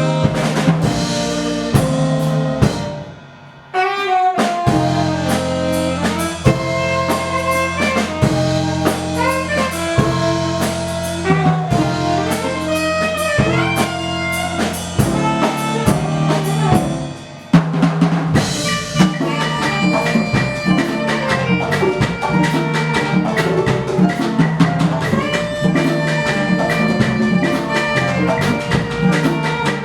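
Live ensemble music: drums and percussion playing a busy rhythm under pitched melodic lines, with a short break about three seconds in and another just before eighteen seconds.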